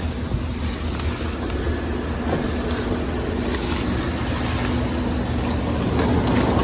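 A motor vehicle driving along, with a steady engine hum and road rumble.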